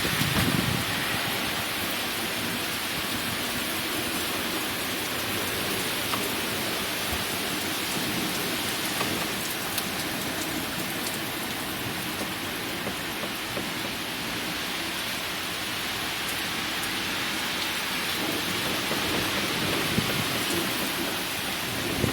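Heavy rain falling steadily during a thunderstorm, with low thunder rumbles near the start and again shortly before the end.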